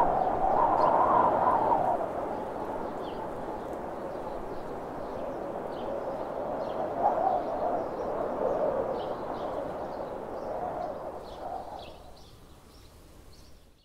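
Small birds chirping in short, repeated high calls over a steady rushing noise, the whole sound fading out near the end.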